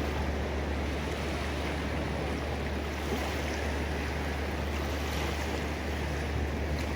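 Ocean surf: a steady, even wash of waves with no single breaker standing out, over a constant low rumble.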